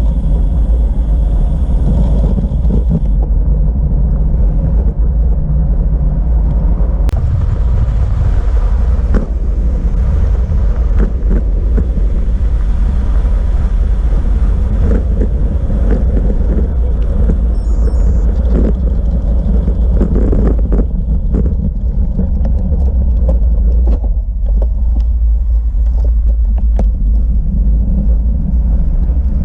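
Steady low rumble of wind buffeting the microphone and road noise from a bicycle-mounted camera while riding, with scattered small knocks and rattles from bumps in the road.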